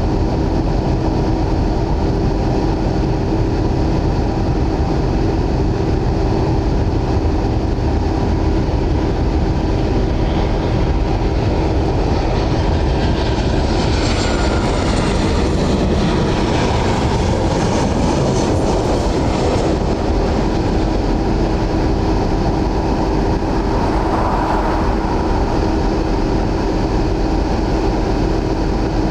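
Jet airliner passing low on short final: its engine noise swells to a peak about halfway through, with a falling whine, over a steady background rumble.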